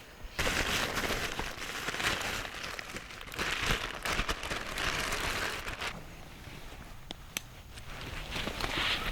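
Rustling and crinkling, heavy for the first six seconds, easing off for a couple of seconds, then picking up again near the end.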